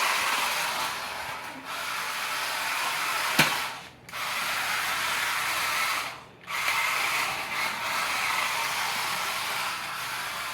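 RC drift car running and sliding across the floor, a steady hissing drive-and-tyre noise that cuts out briefly twice, with one sharp knock a little over three seconds in.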